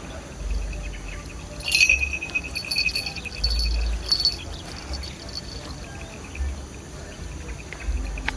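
Insects trilling in rapid even pulses, with a sharp knock just under two seconds in and low wind rumble on the microphone now and then.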